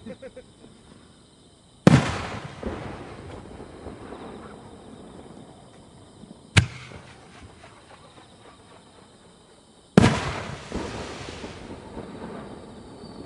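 Aerial firework shells bursting: three loud booms about two, six and a half, and ten seconds in. The first and last ring on in a long fading echo, the middle one is short and sharp.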